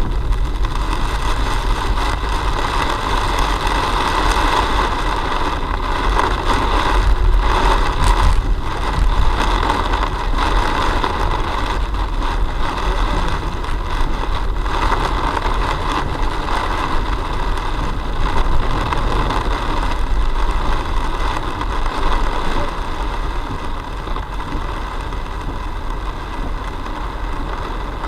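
Steady driving noise of a car, heard from inside the cabin: engine and road rumble with a continuous rushing noise, easing off a little near the end.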